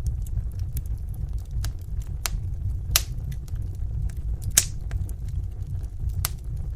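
Fire burning in a fireplace: a steady low rumble with sharp crackles and pops about once a second, the loudest pop about two-thirds of the way through.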